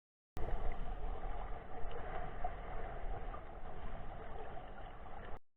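Tour boat under way: a steady engine rumble with rushing water and wind noise. It starts suddenly and cuts off suddenly.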